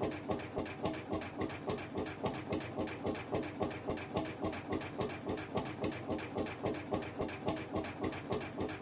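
Lanz Bulldog HR8 tractor's single-cylinder two-stroke hot-bulb engine running at a slow, steady idle, an even chug of about three beats a second.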